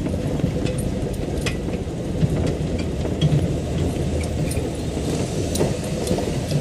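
Safari vehicle's engine running steadily at low speed, a continuous low rumble with small rattles and clicks from the vehicle.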